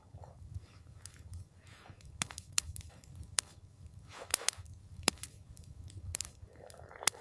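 Campfire crackling: irregular sharp pops and snaps of burning wood, several a second at times, over a low steady rumble.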